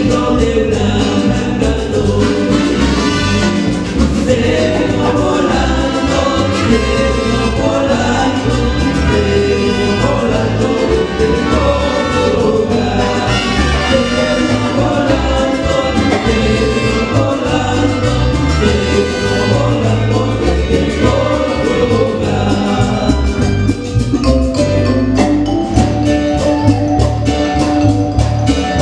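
A live band playing an upbeat Latin-style song, with singing over the instruments.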